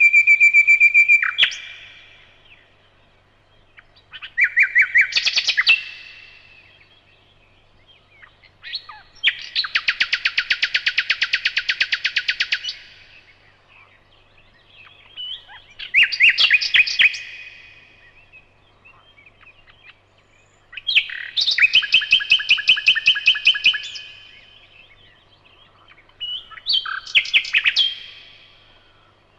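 Nightingale singing in separate phrases with pauses of a couple of seconds between them: a held pure whistle at the start, then fast trills and rattles of rapidly repeated notes, the longest trill lasting about four seconds near the middle.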